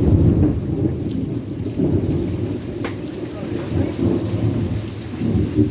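Heavy rain falling, with a loud low rumble throughout and a few sharp ticks of drops.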